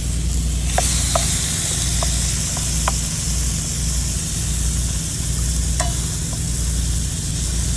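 Chicken breast and shrimp sizzling in a pan. The hiss swells about a second in, and a few light clicks come from a utensil stirring. A steady low hum runs underneath.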